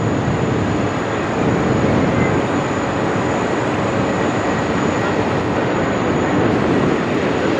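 Steady rumble of a Boeing 777X's twin GE9X turbofan engines at high power, holding an even level throughout.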